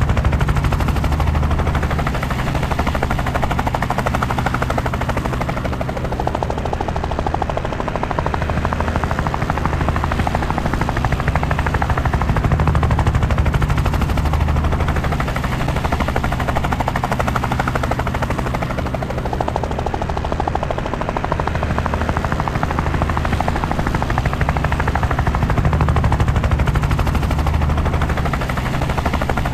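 Helicopter in flight: steady rotor chop with engine noise, a fast, even beating that swells and eases slightly every few seconds.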